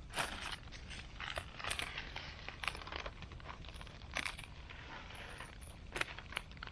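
Irregular rustling and scraping with scattered sharp clicks, like things being handled or moved on the ground at a campsite.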